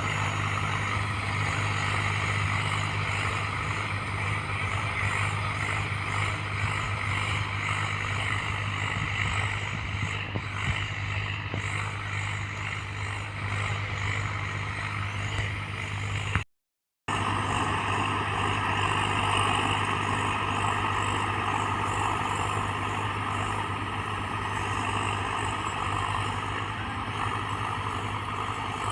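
Swaraj 744 XT tractor's diesel engine running steadily under a constant low hum. The sound cuts out completely for about half a second a little past halfway.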